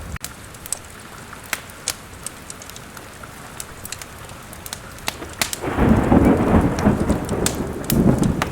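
Steady rain with the sharp crackles and pops of a wood fire in a fireplace. About five and a half seconds in, a roll of thunder rumbles for nearly three seconds and is the loudest sound.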